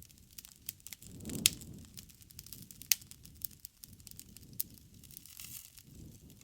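Campfire crackling, with frequent sharp pops over a low rumble of flame. The loudest pop comes about a second and a half in, together with a brief swell of the low fire sound, and further distinct pops follow near three seconds and past four and a half seconds.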